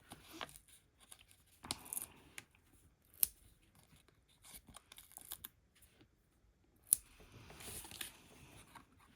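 Paper and adhesive pads being handled and peeled: short rustles and peeling sounds, with sharp clicks about three and seven seconds in.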